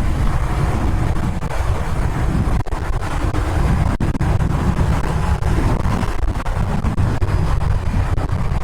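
Royal Enfield Interceptor 650 parallel-twin engine running at riding speed, under steady wind rush buffeting the rider's microphone.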